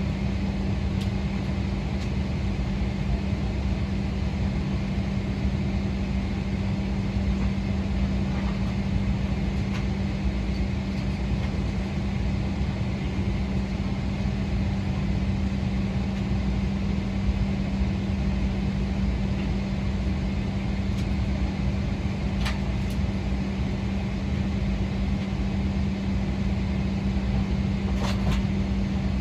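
Steady cabin hum and rumble inside a Boeing 777-300ER on the ground, with a constant low tone running under it. A couple of faint clicks come near the end.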